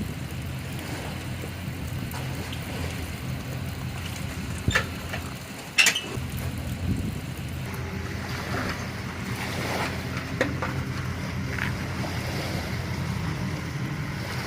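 Boat engine running steadily at idle, with wind and water noise. Two short sharp knocks come about five and six seconds in.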